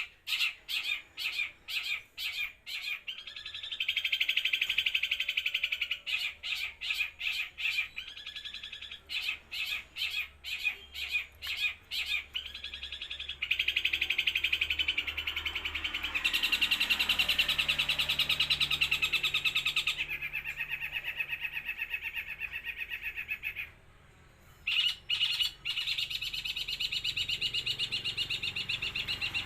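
Long-tailed shrike singing loudly: runs of sharp repeated notes, about three or four a second, alternating with long, unbroken, rapid chattering trills. It falls silent for about a second late on, then starts again.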